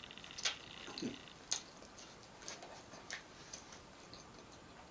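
Close-up eating sounds: a person chewing food, with sharp wet mouth clicks and smacks every half second to a second and a brief hum about a second in.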